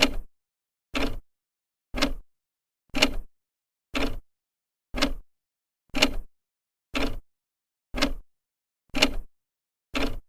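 Second hand of an old clock ticking: sharp, even ticks, one a second.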